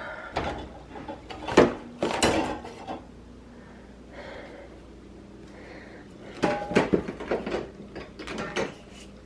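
Bottles and containers of cleaning products knocking and clattering as they are rummaged through and moved about. Several knocks in the first few seconds, a quieter spell, then more clattering again from about six and a half seconds in.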